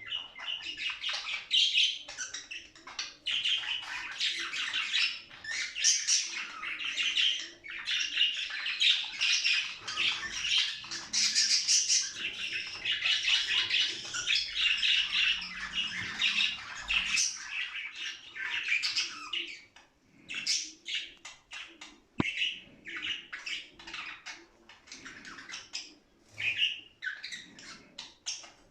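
Budgerigars warbling and chattering in a dense, fast stream of chirps and squawks. About twenty seconds in, this thins out to sparser, choppier chirps and clicks.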